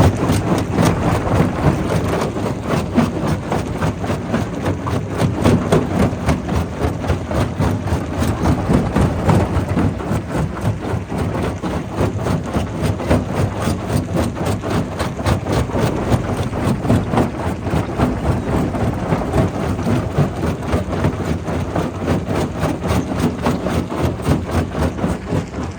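Quarry primary rock crusher running under load: a steady heavy machine drone with dense, unbroken clattering and grinding of stone being broken.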